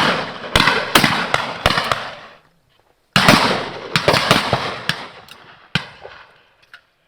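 Shotguns firing at driven game birds: about a dozen shots of differing loudness from several guns in two quick volleys, each shot trailing off in a long echo.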